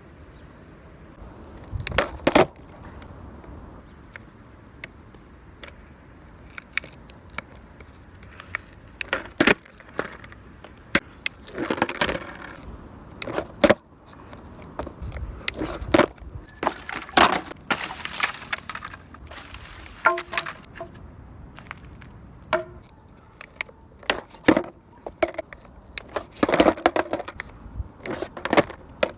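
Skateboard being ridden and tricked: repeated sharp clacks and impacts of the board, with a few longer stretches of rolling noise between them.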